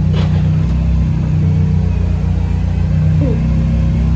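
Car engine running at a steady idle with a low rumble.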